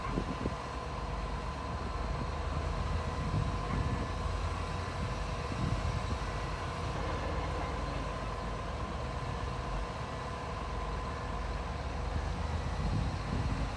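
Heavy diesel earthmoving machinery running: a steady low engine rumble with a faint constant whine above it, swelling briefly now and then.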